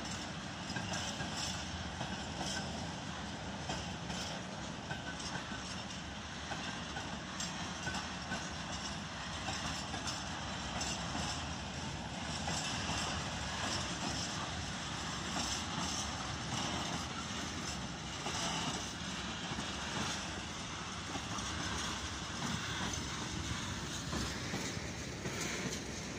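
Freight train of tank wagons rolling past: a steady rumble of wheels on rail with irregular clicks from the wheels over rail joints.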